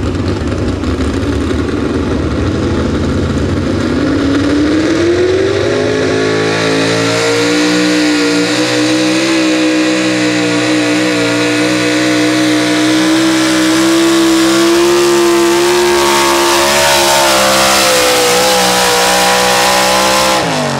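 Pro stock four-wheel-drive pulling truck's engine under full load down the track, its pitch climbing over the first few seconds and then held high at near-full revs. The revs fall sharply right at the end.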